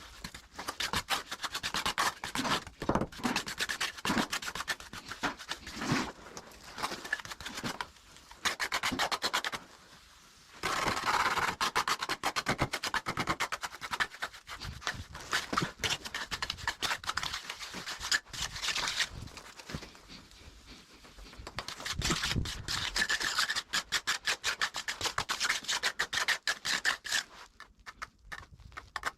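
Trowel scraping and smoothing wet cement mortar in quick repeated strokes, with short pauses between spells of work.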